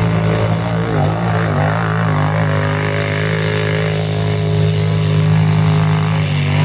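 ATV engine running steadily at a constant speed close by, with other engines changing pitch more faintly between about one and two and a half seconds.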